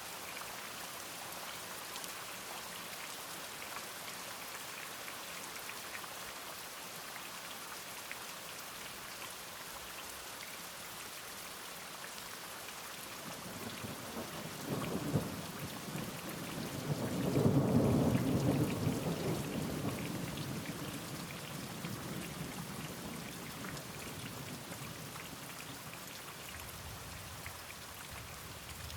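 Steady rain falling, with a roll of thunder about halfway through that builds to a loud peak and rumbles away over several seconds.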